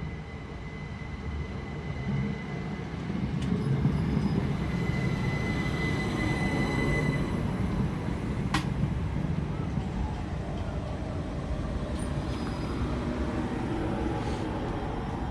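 Great Western Railway passenger train running into the platform and slowing to a stop, with a steady high squeal that fades out about seven seconds in. A sharp click comes about eight and a half seconds in.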